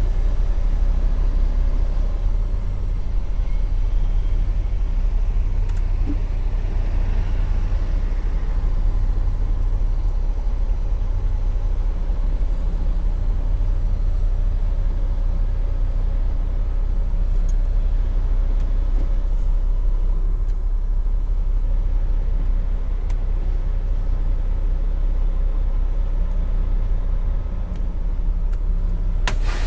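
Semi-truck diesel engine running steadily with a low rumble, heard from inside the truck. There is a brief knock near the end.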